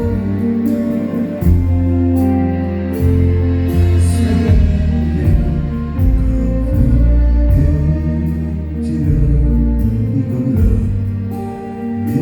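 Live band music: a slow song with deep bass notes changing every second or so under sustained higher tones.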